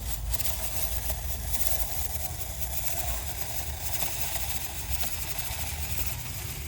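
Drill spinning a dryer vent cleaning brush on bendable rods inside the vent duct, running steadily without a break.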